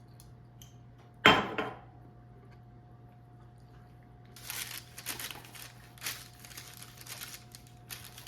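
One sharp knock about a second in, then a few seconds of irregular crinkling and rustling.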